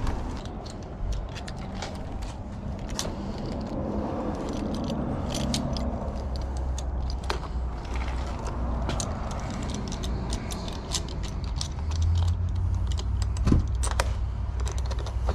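Metal lock hardware and tools being handled: scattered small metal clicks and rattles over a steady low hum.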